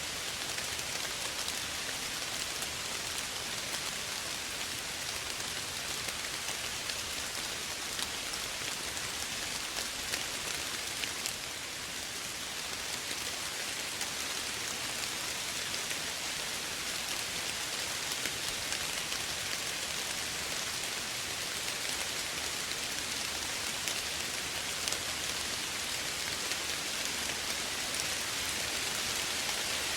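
Steady gentle rain falling, an even hiss with scattered drops ticking on a surface, dipping slightly about ten seconds in.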